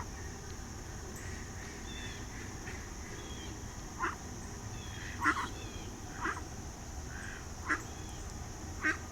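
Ducks quacking: about five short quacks, spaced a second or so apart, in the second half. Faint chirps of small birds come between them over a steady high hiss.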